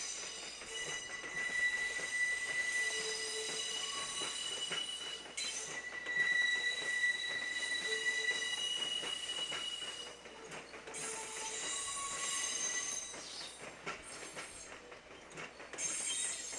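JR Kyushu electric train's wheels squealing against the rails during slow depot shunting: a high, ringing squeal that shifts between pitches, fading and coming back several times.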